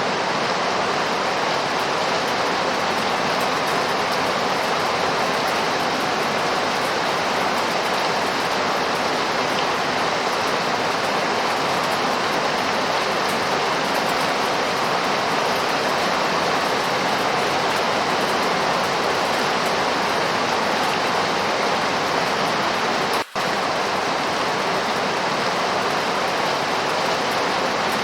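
Steady rainfall, a continuous even hiss of rain, broken by a split-second dropout about three-quarters of the way through.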